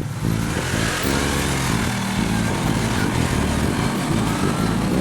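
Side-by-side UTV engine revving under load on a rock climb, its pitch rising and falling, with a steady rush of noise over it.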